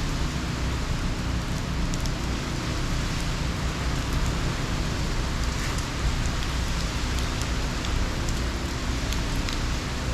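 Heavy hurricane rain falling steadily, with a low steady rumble underneath.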